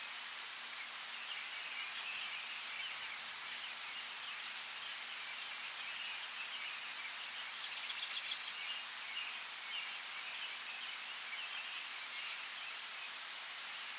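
Steady rain hiss with small birds chirping throughout. About halfway through, a bird gives a rapid high trill of about eight notes lasting about a second, the loudest sound.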